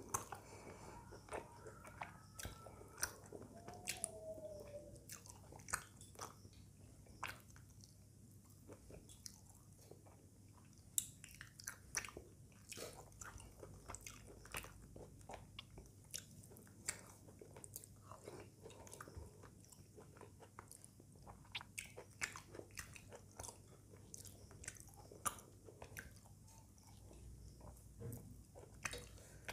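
Close-up chewing and mouth sounds of a person eating rice and curry with the fingers, heard as many short, irregular, quiet clicks.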